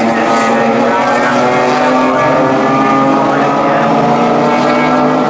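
Heritage touring race cars' engines running hard on circuit, a steady engine note with a second car's lower note joining about two seconds in.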